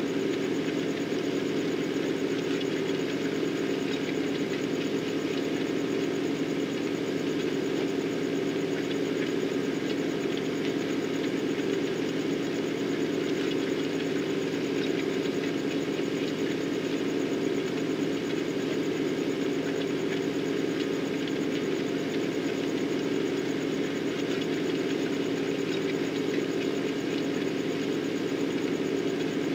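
Tractor engine running at a steady speed while working ground.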